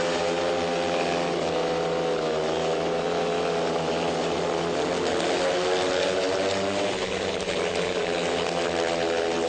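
Motorcycle engines running steadily at high revs, their pitch wavering slightly up and down.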